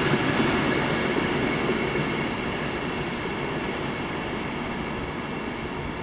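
A train running past on the main line, the rumble of its wheels on the rails slowly fading as it moves away.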